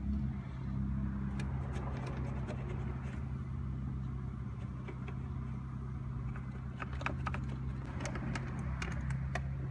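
Steady low mechanical hum with scattered light clicks and taps of hand tools and parts in a car's engine bay, the clicks coming more often near the end.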